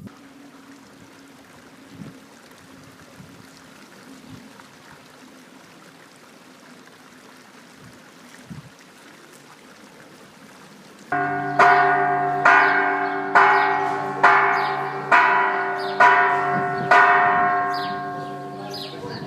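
Faint background with a low hum, then about eleven seconds in a church bell starts ringing, struck about once a second with each stroke ringing on and fading.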